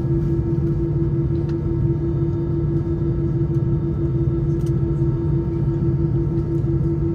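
Airbus A319-111's CFM56 engines droning, heard inside the cabin: a steady low rumble with a loud, pulsing hum above it and faint steady higher tones.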